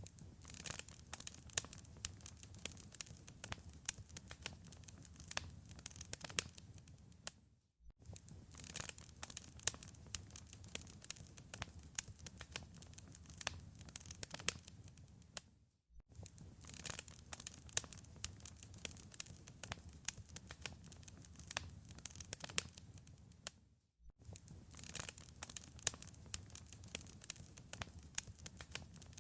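Wood fire crackling in a fireplace: a steady bed of soft burning noise with dense, irregular sharp crackles and pops. The sound drops out completely for a split second about every eight seconds.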